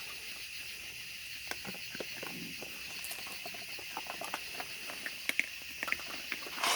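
Raccoons feeding close by: scattered small clicks and taps of paws and chewing at the food, irregular and soft.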